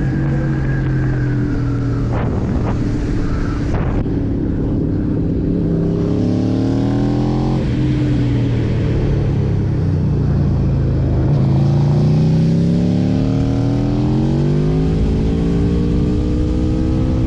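Aprilia RSV4 Factory's V4 engine pulling hard, its pitch climbing, dropping sharply at a gear change about eight seconds in, then climbing steadily again.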